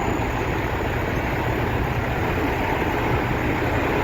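Steady, even noise of vehicle engines and traffic, the low drone of trucks running nearby.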